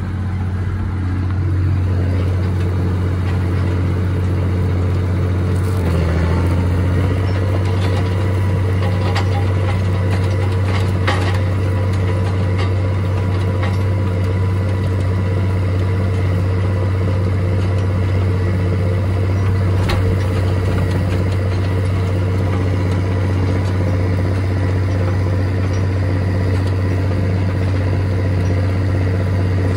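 Tractor engine running steadily at an even speed, with a few brief knocks over it.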